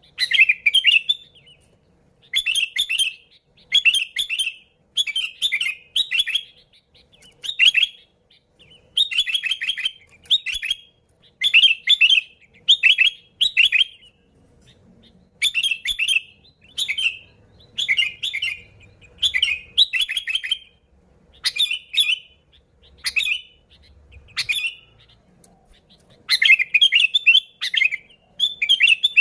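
Sooty-headed bulbul singing: short, bubbly chirping phrases repeated about once a second, with brief pauses between them.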